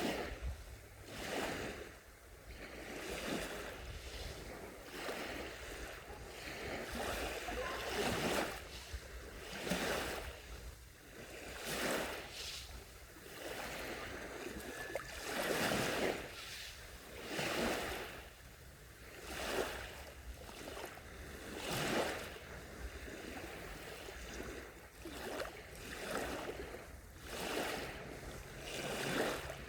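Small sea waves breaking and washing up a beach, a soft hiss of surf that swells and fades every couple of seconds.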